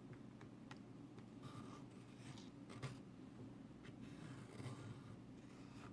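Pencil drawing a small circle on folded paper: faint, irregular scratching strokes with a few light clicks.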